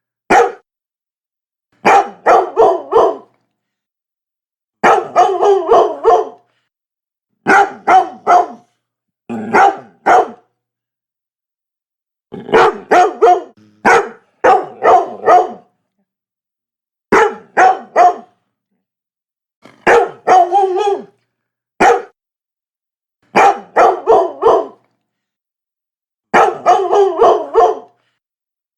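Labrador barking in short bursts of two to five quick barks, about ten bursts, each followed by a few seconds of dead silence.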